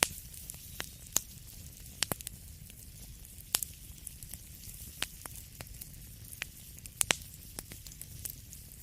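Wood fire crackling: irregular sharp pops and snaps, about one or two a second, over a steady low rumble and a soft hiss.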